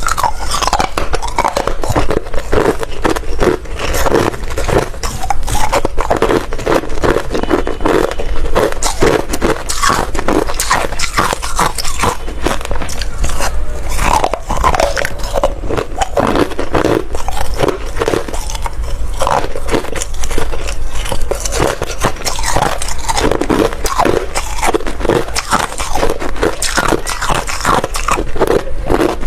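Ice being bitten and chewed close to the microphone: loud, crisp crunches one after another, without pause.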